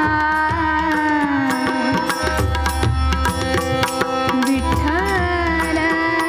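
Live devotional abhang: a woman's voice holds long notes, gliding slowly down and then wavering back up, over hand-drum strokes and rhythmic accompaniment.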